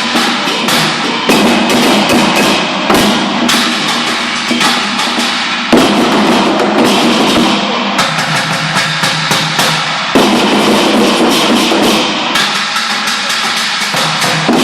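Rhythmic percussion music with many repeated strikes.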